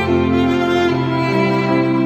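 Slow, sad background music of bowed strings: violin and cello holding long notes that change pitch every second or so.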